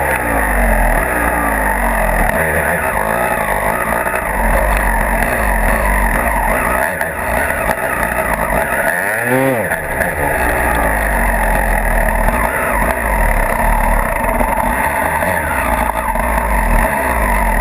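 Dirt bike engine revving up and down while riding, with one sharp rev rising and falling about nine seconds in, over a heavy deep rumble of wind on the camera microphone. Cuts off suddenly at the end.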